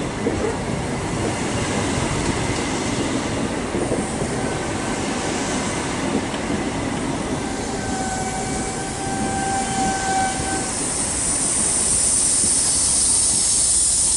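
InterCity 125 high speed train running into the platform: steady rumble and wheel clatter. About 8 s in, a steady squeal lasts about three seconds, then a hiss builds up over the last few seconds.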